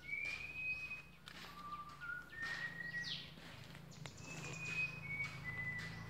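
Birds calling: a string of clear, level whistled notes at different pitches, each held briefly, with a couple of quick falling chirps, over a steady low hum.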